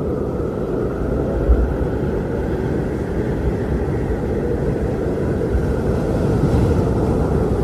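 Strong wind blowing steadily, a deep rushing roar with a brief low buffet about a second and a half in.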